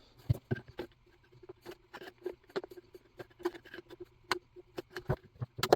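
New fuel line being pushed by hand into the plastic fuel tank of a STIHL 019 chainsaw: irregular small clicks, taps and scuffs.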